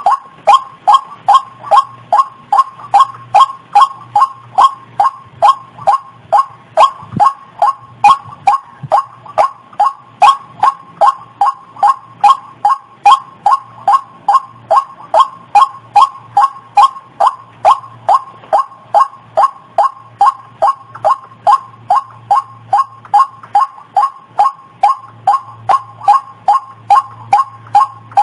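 White-breasted waterhen (ruak-ruak) call used as a bird lure: short, slightly falling notes repeated steadily at about two a second, without pause.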